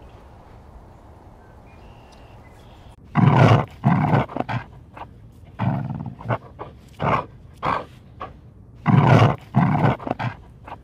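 Dog barking and growling in harsh, irregular bursts, about a dozen over the last eight seconds, the longest about half a second each.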